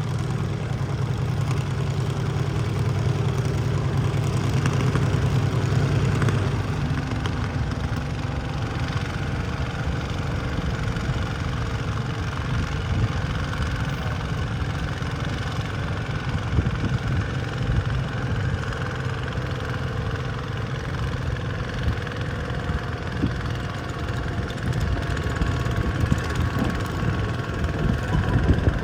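Garden tractor engine running, likely pulling a weight sled. It holds a steady pitch for the first six seconds or so, then turns rougher and more ragged for the rest.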